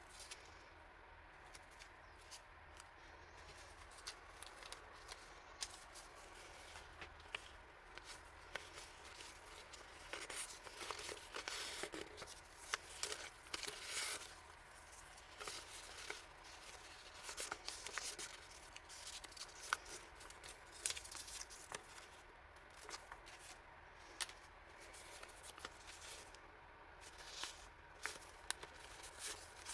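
Packaging and paper items being handled and opened: rustling, crinkling and tearing, with scattered small clicks and taps. The handling is busiest for a few seconds in the middle and then quieter.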